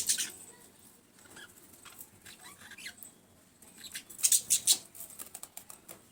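Small pet birds chirping and squeaking: a dense cluster of short high chirps at the start, a few faint squeaks in the middle, and another loud cluster about four seconds in.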